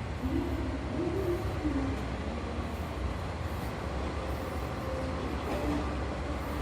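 DD51 diesel-hydraulic locomotive idling at a standstill: its twin V12 diesel engines give a steady low rumble. A few brief wavering mid-pitched tones sound over it in the first couple of seconds.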